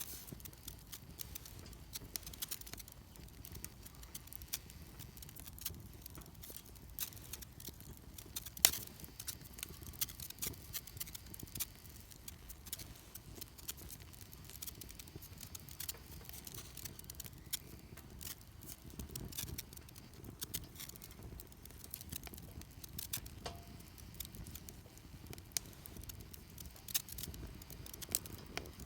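Wood fire crackling in a Solo Stove Campfire: many small, irregular crackles and pops, with one sharp pop about nine seconds in the loudest.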